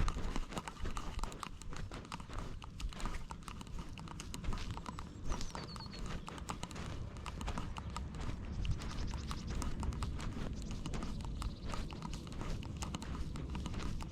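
Rapid small knocks, scrapes and rustles of a GoPro strapped to a moving cat: the cat's steps and the camera jostling on its body, over a low rumble of handling noise.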